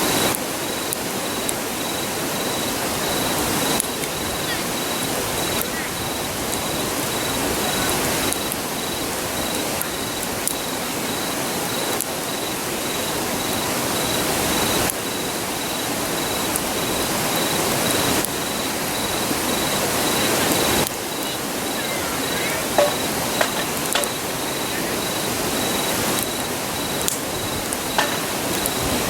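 Steady rushing of a river, with an insect chirping in a fast, even pulse over it. A few sharp pops from the campfire come in the second half.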